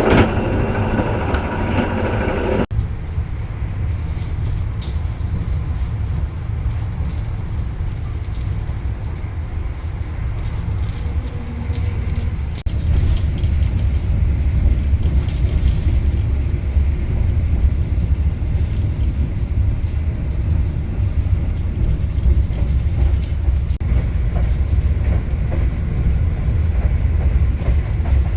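Running noise of the KA Argo Bromo Anggrek passenger train in motion: a steady low rumble. A louder, fuller noise in the first few seconds cuts off suddenly, and the rumble grows louder about halfway through.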